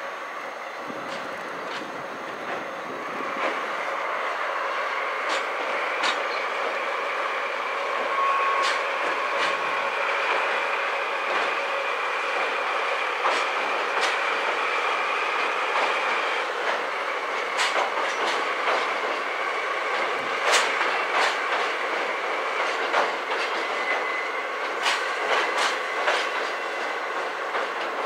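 JR Freight DD51 twin-engine diesel-hydraulic locomotive running slowly past, hauling cement tank wagons across a steel bridge. The engine's steady running is joined by the wagons' wheels clacking over the rail joints in many sharp, uneven clicks, which grow thicker in the second half, over a thin steady squeal.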